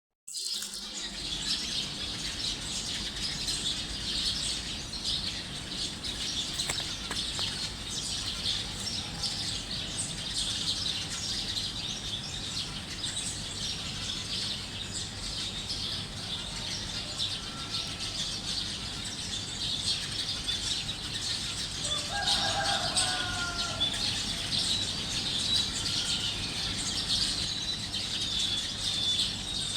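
Dawn chorus: many small birds chirping and twittering at once, thick and continuous, over a steady low background hum. About two-thirds of the way through, a chicken calls once, lower in pitch than the birds.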